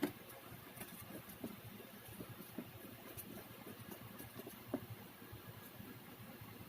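Scattered faint light clicks and taps over a low hiss, with one sharper knock at the start.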